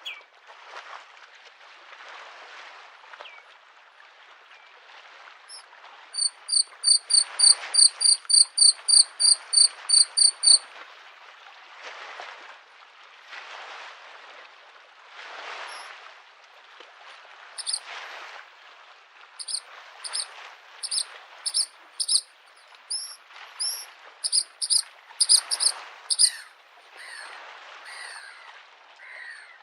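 Bluethroat singing over the wash of small lake waves on the shore: a quick run of about fifteen identical high notes, then after a pause a varied string of short, sharp notes.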